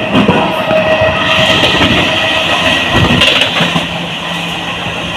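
Moving passenger train running on the rails: a steady rattling rumble of wheels and carriages, with a few short knocks.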